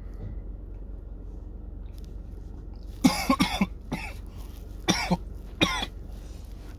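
A man's coughing fit, a smoker's cough while smoking a blunt: a few seconds in, several short harsh coughs come in quick groups over about three seconds.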